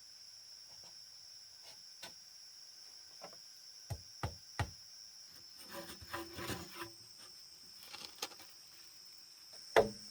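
Steady high-pitched insect drone, with three sharp knocks about four seconds in, a short rustling clatter around six seconds, and a louder knock near the end.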